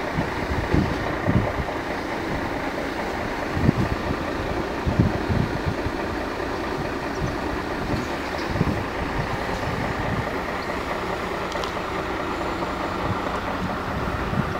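Porsche 991 GT3 RS's flat-six engine idling steadily, with wind buffeting the microphone in uneven low thumps.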